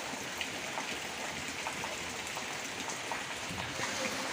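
A steady hiss like rain or running water, with scattered faint clicks and taps.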